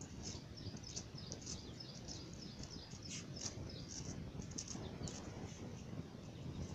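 Birds chirping: many short, high chirps in quick, overlapping succession over a steady low rumble.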